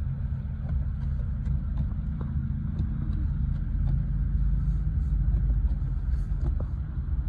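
Snowblower engine running steadily under load, a low rumble with scattered faint ticks.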